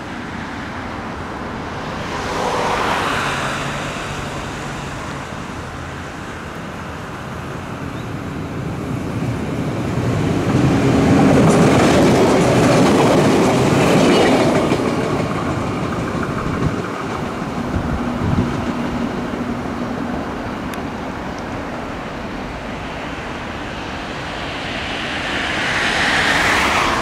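JR 115 series electric multiple unit approaching and passing on the line, its wheels running on the rails. The running noise builds to its loudest about halfway through, then eases off.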